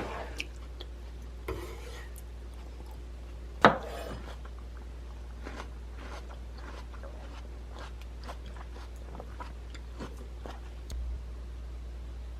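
Kitchen work: dishes and utensils being handled, with a sharp knock right at the start and another about four seconds in, then a run of light clicks and taps, over a steady low hum.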